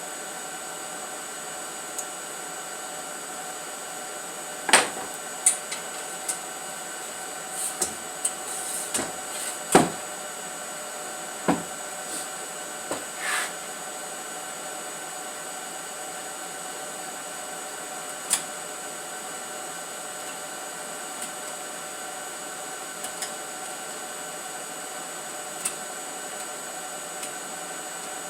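Steady workshop hum with a few faint fixed whining tones, broken by scattered sharp knocks and clinks of parts being handled, most of them bunched between about five and fourteen seconds in.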